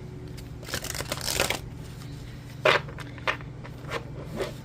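A deck of tarot cards being shuffled for about a second, followed by four short sharp snaps and taps as cards are handled.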